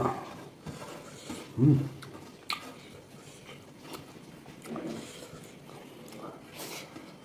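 A person chewing and biting pork, with scattered short clicks and smacks of eating. A brief, loud, low-pitched voiced sound about one and a half seconds in.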